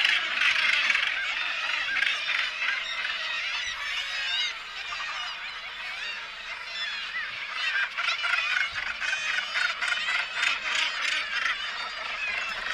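A large flock or colony of birds calling all at once: many harsh honking calls overlapping into a continuous din, thinning a little midway and building again near the end.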